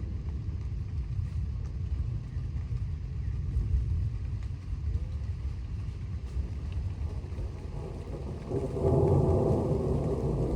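Thunder from an approaching thunderstorm: a low continuous rumble that swells louder about eight and a half seconds in.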